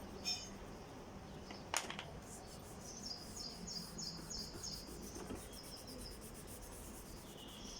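A small bird chirping: short bursts of high, quick repeated notes, with a fast run of chirps in the middle. A single sharp click comes about two seconds in.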